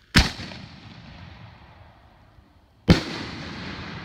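Aerial fireworks bursting: two loud bangs about two and a half seconds apart, each followed by a long fading tail.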